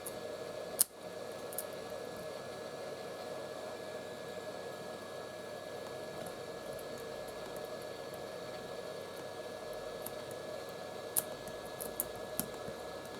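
Heat gun blowing steadily, a constant whir with a thin whine in it, used to soften the adhesive under cracked iPhone back glass. A few light clicks sound over it, one about a second in and several near the end.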